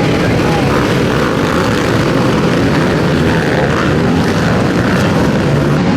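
Motocross motorcycle engines racing, a loud, unbroken engine drone with pitch shifting up and down as the riders work the throttle.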